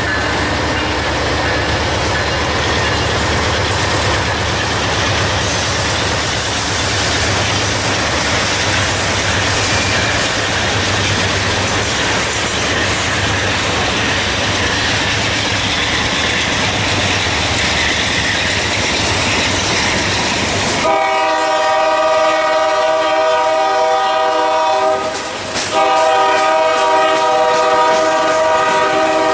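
Freight cars (covered hoppers and tank cars) rolling past, with a steady rumble and wheels clattering over the rail joints. About two-thirds of the way through a locomotive horn starts, a long held chord, briefly broken once and then sounding again to the end.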